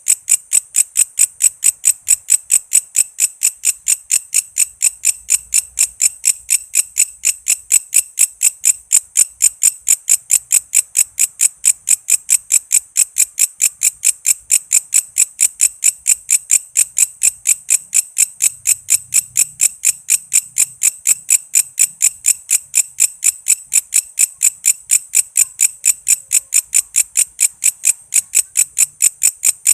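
Walang kece insect calling: a loud, steady series of sharp, high chirping pulses, about four a second, with no break.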